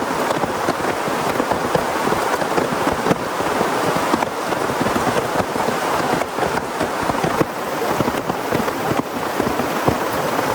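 Heavy rain falling, a steady hiss dotted with many sharp taps of drops striking a surface close by.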